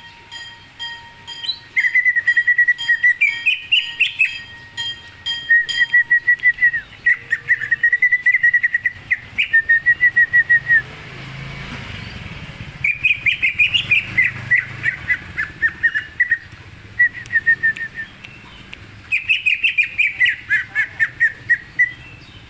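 A songbird singing loudly in phrases of rapid repeated notes, broken by a pause of about two seconds midway.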